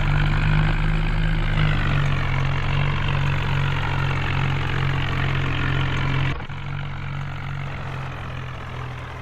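Tractor engine running steadily with a low, even note. About six seconds in the sound drops suddenly, then slowly fades.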